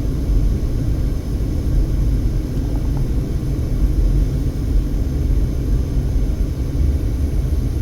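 Steady low rumble of a car driving slowly, with road and engine noise heard from inside the cabin.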